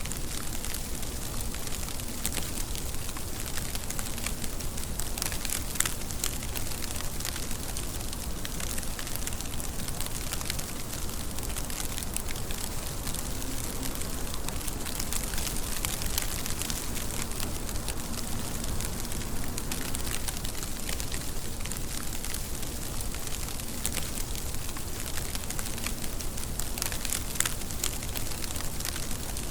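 Steady rain falling, with a continuous hiss and many individual drops ticking close by.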